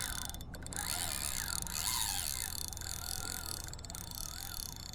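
Fishing reel ticking faintly while a hooked fish pulls against the line.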